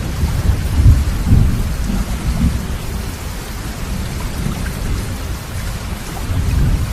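Heavy rain falling steadily, with a deep, uneven low rumble under it that swells in the first second and a half and again near the end.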